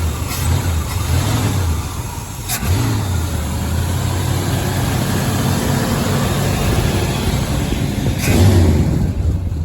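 Chevy 350 small-block V8 running just after being started, fed from a fuel jug. It dips briefly about two and a half seconds in, picks back up, and is revved louder near the end.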